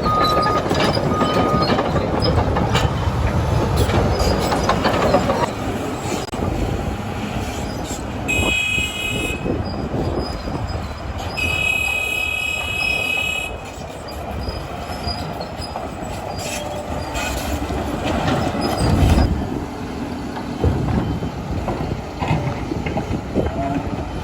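Caterpillar D8T crawler bulldozer at work: the diesel engine running under a steady clatter of steel tracks. Two long high-pitched squeals sound from the running gear, one about eight seconds in and another about eleven seconds in. A reversing alarm beeps briefly at the very start.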